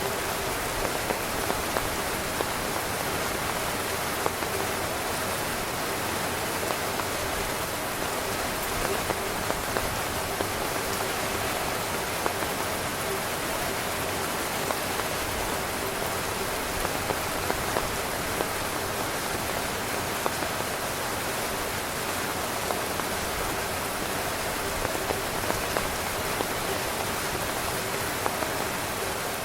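Steady heavy rain falling on a tent, an even hiss with scattered louder drops tapping on the fabric.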